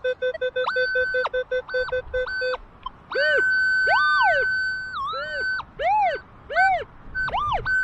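Metal detector audio responses as the coil sweeps. First comes a quick run of short low beeps, about four or five a second. From about a second in, longer high tones sound, and after three seconds a string of chirps rises and falls in pitch, about one every half second.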